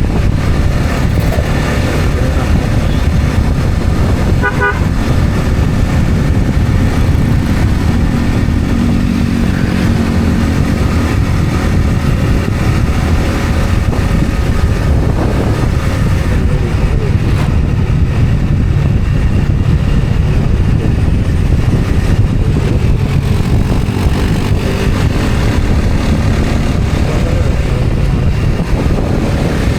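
Road vehicle travelling along a street: a loud, steady rumble of engine and road noise, with a brief beep about four and a half seconds in.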